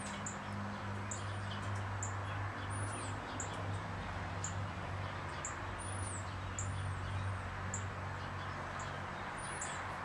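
Small birds chirping outdoors: short, high chirps and little arched notes every second or so, over a steady low hum.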